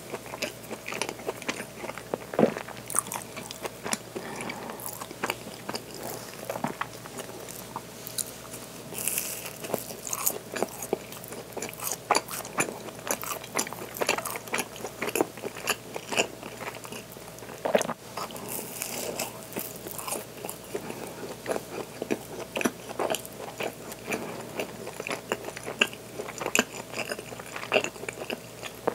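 Close-up biting and chewing of a coarse-sugar-coated waffle bread, with the sugar crystals crunching and crackling between the teeth in quick irregular clicks.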